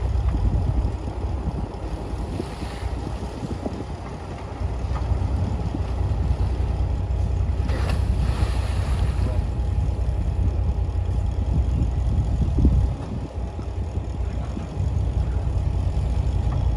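Diesel engine of a heavy earthmoving machine running under load as a deep, steady rumble that eases off briefly twice, with wind buffeting the microphone.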